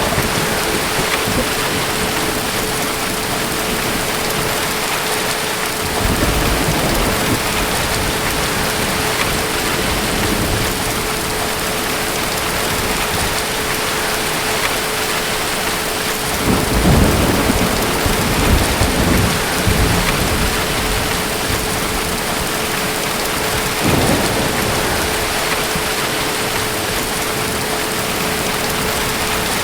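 Steady rain with distant thunder rumbling: a low roll about six seconds in, a longer, louder rumble from about sixteen to twenty seconds, and a short one near twenty-four seconds.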